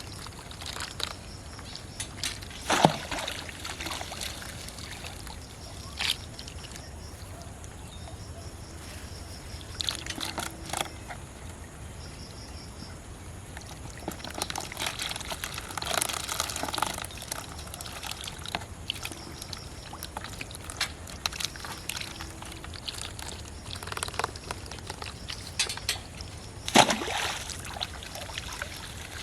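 Shallow water sloshing and splashing unevenly, with two loud splashes, one about three seconds in and one near the end.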